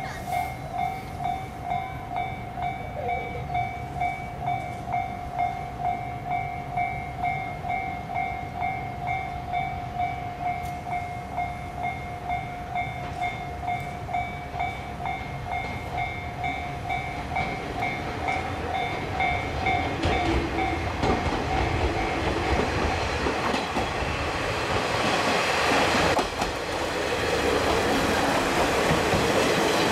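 Level-crossing warning bell dinging steadily about twice a second. From about twenty seconds in it is drowned by the rising noise of a KiHa 38 diesel railcar train approaching, which passes with wheel clatter near the end.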